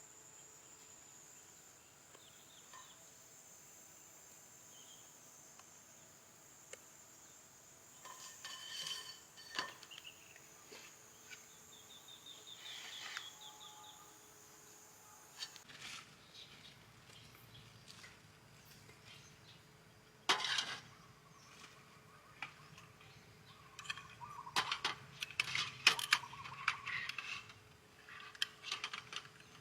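A steady high-pitched insect drone over faint jungle background that stops about halfway through. Then come scattered clicks and a run of clinking and clattering, like dishes and utensils being handled, busiest near the end.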